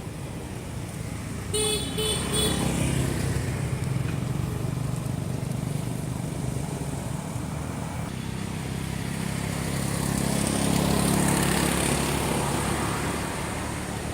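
Road traffic: a vehicle horn gives a few quick toots about one and a half seconds in, over the steady running of engines. A vehicle passes, getting louder near the end.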